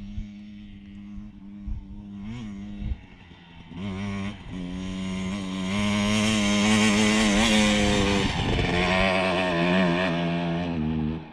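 Dirt bike engine running at a fairly steady pitch. It grows much louder from about four seconds in and stops abruptly near the end.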